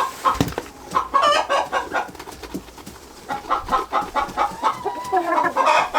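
Chickens clucking continuously, many short overlapping calls, with a few clicks and a knock about half a second in.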